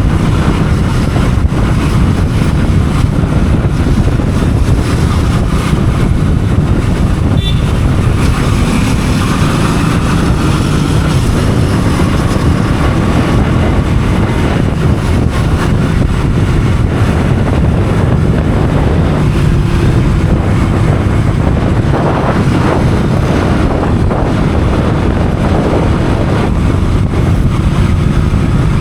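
Motorcycle riding along with wind rushing over the microphone and a steady engine drone underneath.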